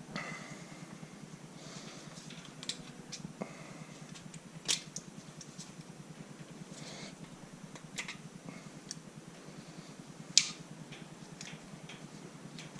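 Scattered sharp clicks and taps of small metal engine parts being handled on a bench, the loudest about halfway through and again near the end, over a steady low hum.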